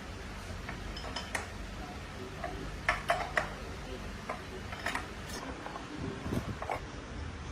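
Light metallic clinks and taps of tools and metal parts being handled, with a quick cluster about three seconds in, over a steady low hum.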